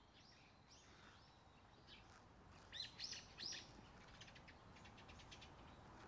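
Short bird chirps over quiet outdoor background: a few faint ones in the first second, three louder ones in quick succession about three seconds in, then a quick run of faint ticking notes.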